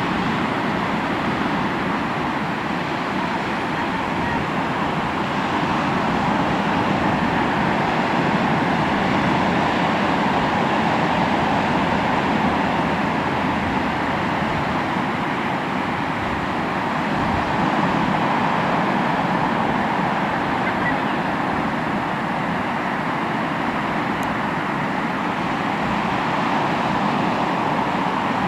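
Sea waves washing onto the shore, a continuous surf that slowly swells and eases with no single crash standing out.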